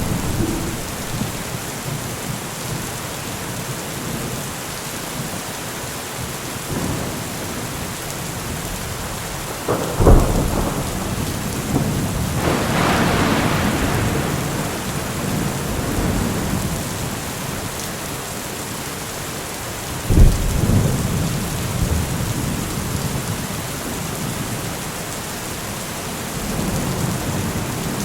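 Steady rainfall in a thunderstorm. A sharp thunderclap comes about ten seconds in, followed by a rolling rumble, and another sharp crack comes about twenty seconds in.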